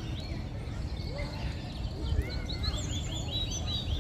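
Mallard ducklings peeping: many short, high, down-slurred peeps, coming in a quick run of about eight in a row in the second half, over a steady low rumble.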